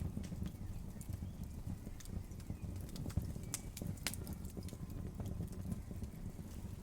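Campfire burning, with irregular sharp crackles and pops over a steady low rumble of flames.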